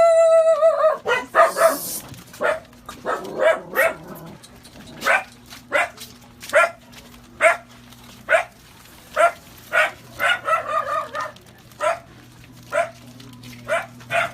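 A dog barking over and over, roughly once a second, with one longer drawn-out call at the start. A faint steady low hum lies underneath.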